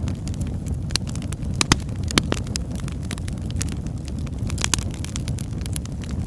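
Wood fire crackling, with irregular sharp pops over a steady low rumble; the loudest pops come about a second and a half to two seconds in.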